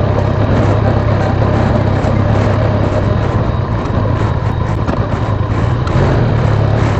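Motorcycle engine running steadily with a low hum while being ridden slowly, with a constant haze of road and wind noise over it.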